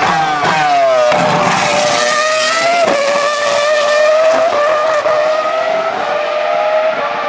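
The 3.0-litre Cosworth CR-6 V10 of a 2004 Jaguar R5 Formula 1 car at high revs. Its high-pitched note falls over the first second, then holds steady, with short breaks about three seconds in, about four and a half seconds in, and near the end.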